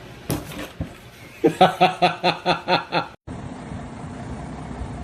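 A person laughing in a quick run of about seven short 'ha' pulses, about four a second. It cuts off suddenly and gives way to a steady background rumble.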